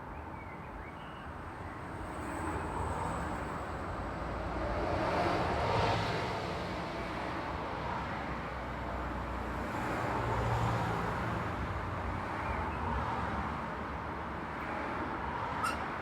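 Road traffic passing: a steady wash of tyre and engine noise that swells as vehicles go by, about 5 seconds in and again about 10 seconds in. A brief sharp click sounds near the end.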